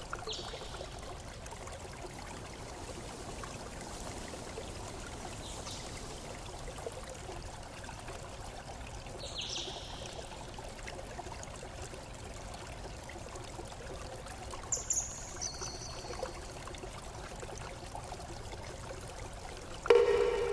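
Steady flowing water, a stream trickling and pouring. A few short, high chirps come on top of it now and then, and a brief louder pitched call comes near the end.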